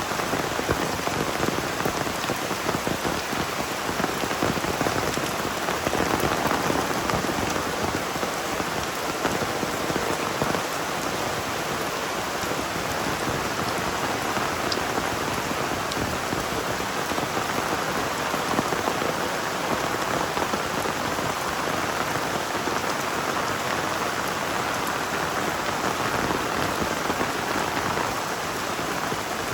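Heavy rain pouring steadily, a dense, even patter of drops drumming on surfaces.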